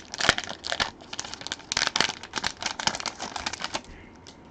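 Plastic packaging crinkling and tearing as it is handled and opened by hand, a dense crackle that stops about four seconds in.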